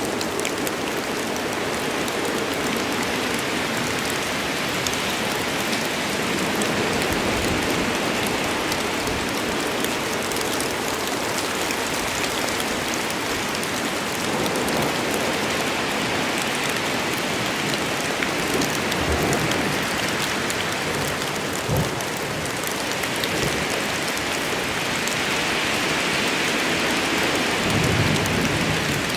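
Steady heavy rain of a storm falling through forest foliage, with a few brief low thuds and a short low rumble near the end.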